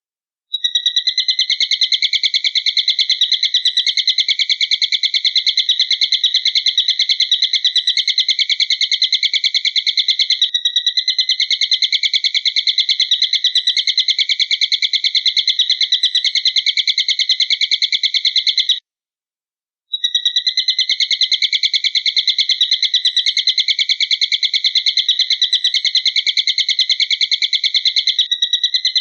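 Recorded eagle call: a fast, even, high trill that runs without a break, stops for about a second about two-thirds of the way through, then starts again unchanged.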